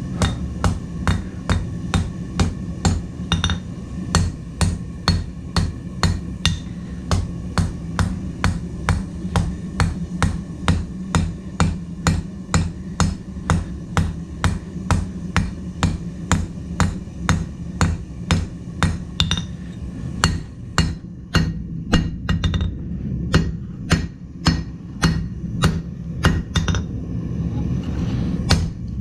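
Blacksmith's hand hammer striking hot steel on an anvil in a steady rhythm, about two blows a second, over a steady low hum.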